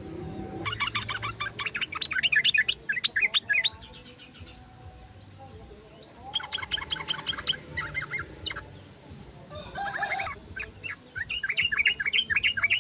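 Yellow-vented bulbul (trucukan) singing in three bursts of fast, bubbling, repeated notes, with short pauses between them.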